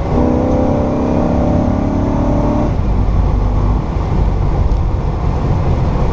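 1964 Pontiac GTO's 389 V8 with Tri-Power carburettors pulling under acceleration, its pitch rising steadily, then backing off about two and a half seconds in to a low rumble with road noise. The engine is freshly rebuilt and being run in under moderate load.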